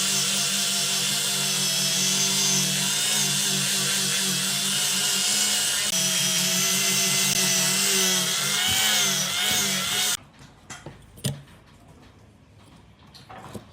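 Electric power tool running steadily on wood, its pitch wavering slightly, then switching off abruptly about ten seconds in, followed by a few faint clicks.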